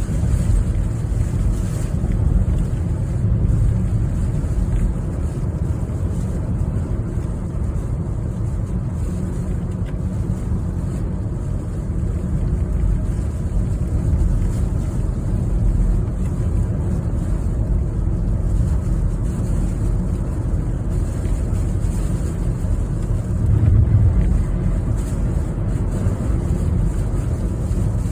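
Strong typhoon wind mixed with the rumble of travel along a road: a steady, heavy low rumble without any clear tone, swelling briefly near the end.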